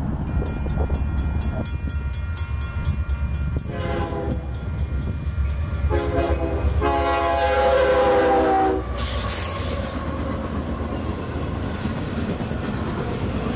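Union Pacific diesel freight locomotives with a heavy, steady rumble. A multi-chime air horn sounds a short blast about four seconds in and a long blast of about three seconds starting at six seconds. A brief hiss follows, then the rumble of double-stack container cars rolling past.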